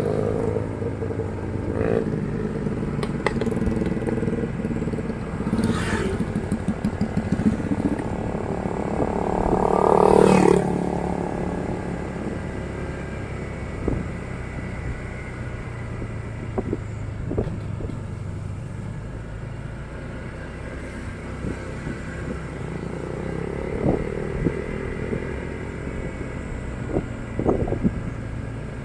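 Motorcycle engine running under way, revving up to a peak about ten seconds in and then easing off. Scattered knocks and rattles can be heard throughout.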